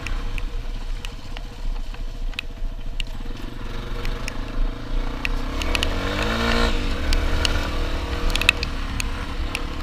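Dual-sport motorcycle engine running under way, revving up and easing back about six to seven seconds in, over a steady low rumble, with scattered sharp ticks and knocks.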